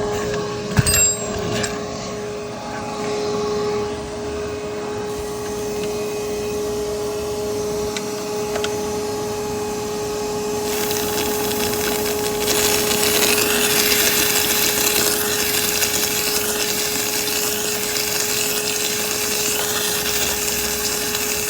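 Shop vac running with a steady whine, drawing negative pressure on the engine's oil system so oil doesn't run out of the oil pan while the drain plug is out. A few knocks about a second in, and the rushing noise grows louder and hissier about ten seconds in.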